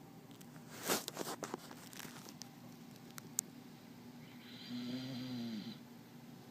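Sleeping dog snoring: one pitched, humming snore about a second long near the end, with a hiss over it. Earlier, about a second in, there is a brief loud noisy burst, followed by a few faint clicks.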